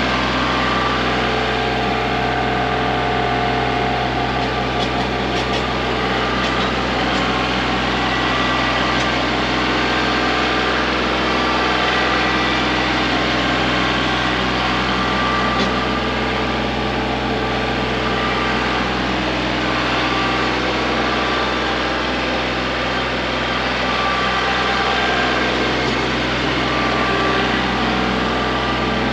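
Kubota L3901 compact tractor's three-cylinder diesel engine running steadily, while the tractor works with a box blade.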